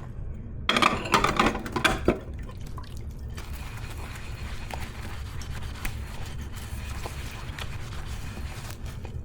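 Water splashing into a kitchen sink onto dishes, with dishes clinking, for about a second and a half. After that, quieter dish handling with a few faint ticks.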